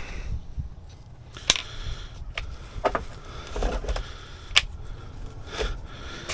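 Scattered sharp metallic clicks and knocks, about five of them, from handling a car battery and tools while setting the battery in place.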